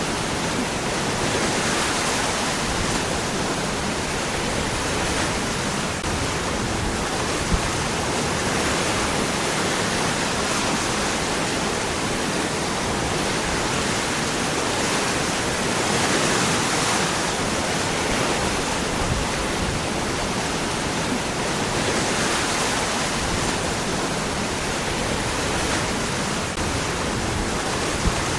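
Waterfall pouring over rocks: a steady, loud rush of falling water with gentle swells.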